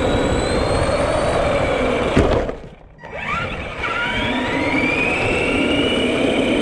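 Electric drive of a Granite 4x4 RC monster truck whining and rising in pitch as it speeds up. About two seconds in there is a sharp knock and the sound drops away briefly, then a fresh whine rises as it accelerates again.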